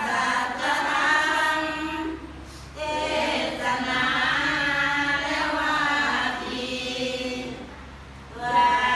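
A group of voices chanting in unison in Buddhist temple chanting, in long held phrases. The chant pauses briefly for breath about two seconds in and again near the end.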